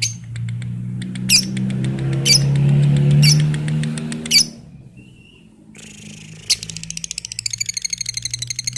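Lovebird calling: a few sharp, separate chirps over a low hum, then, about two-thirds of the way in, a long, very fast chattering trill of rapidly repeated high notes, the 'ngekek' used to train lovebirds.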